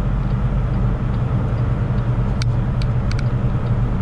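Semi truck's diesel engine and road noise heard as a steady low drone inside the cab while driving, with a few sharp clicks about two and a half to three seconds in.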